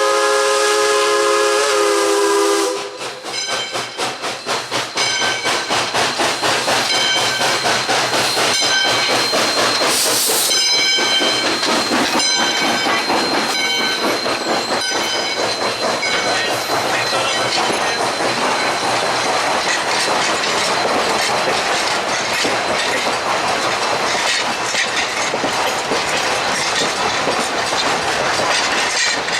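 A steam locomotive's whistle, a chord of several notes, sounds until about three seconds in. Then the train passes with a rapid, even clickety-clack of wheels over rail joints, and a thin high whine for several seconds in the middle.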